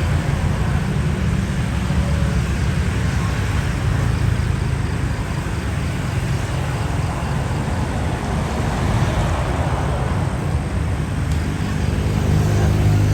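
Steady low rumble of a Boeing 787-10 airliner's jet engines as it taxis.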